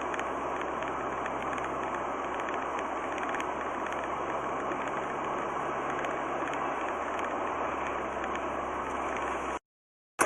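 Steady car running noise, engine and road, picked up by a dashcam inside a moving car. It cuts off abruptly near the end.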